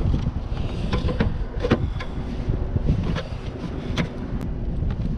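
Wind buffeting the microphone in a low rumble, with scattered sharp knocks and clicks from gear being handled in a kayak.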